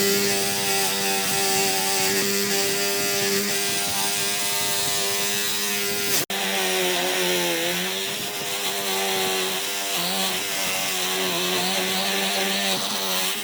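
Power saw running and cutting wood, a steady high motor whine. It breaks off abruptly about six seconds in, then resumes with the pitch sagging and wavering as the blade takes the load.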